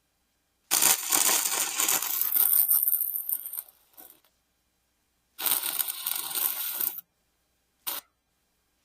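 Wire-feed welder arc crackling in three bursts: a long weld of about three seconds, a shorter one of about a second and a half, then a brief blip.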